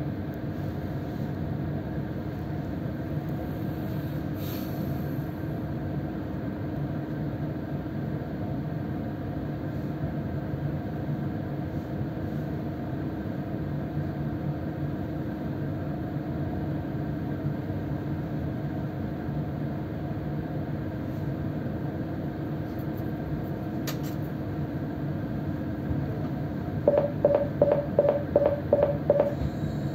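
Steady hum of a stationary electric commuter train's onboard equipment, heard from inside the carriage. Near the end, a quick run of about seven short beeps, about three a second: the door-closing warning.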